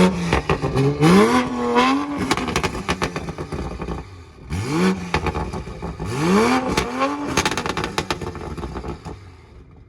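A car engine revved hard four times, each rev climbing quickly in pitch and falling back, with sharp crackling pops from the exhaust.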